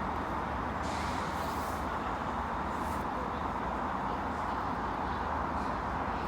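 Steady outdoor background noise, an even rushing sound with no distinct events.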